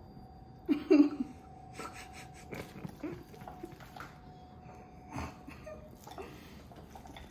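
A short breathy vocal sound about a second in, then scattered light knocks and clinks of kitchen utensils against a mixing bowl, over a faint steady hum.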